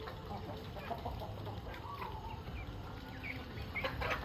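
Chickens clucking with short calls at feeding time, with a few sharp clicks just before the end.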